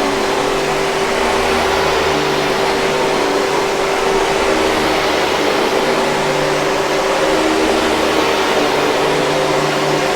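Hoover 5000 Series canister vacuum running steadily: a continuous airflow rush with a constant motor whine.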